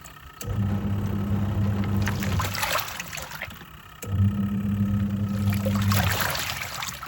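Twin-tub washing machine's wash tub agitating: the pulsator motor hums in runs of about two seconds with short pauses between, as it turns one way and then the other, and the water and clothes slosh throughout.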